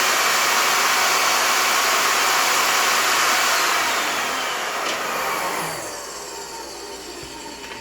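A woodworking power tool's motor running with a loud, steady rushing noise, then switched off and winding down from about four seconds in, fading away toward the end.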